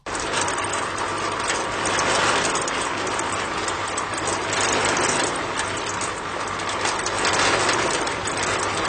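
A small motor-driven machine running steadily with a dense, fast rattle, starting and stopping abruptly.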